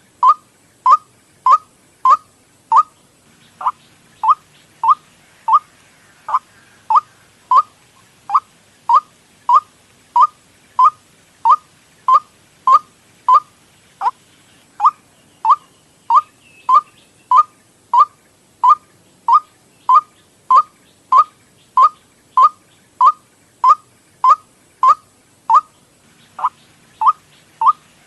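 White-breasted waterhen lure call: one short, sharp note repeated at a steady, even pace, a little under twice a second.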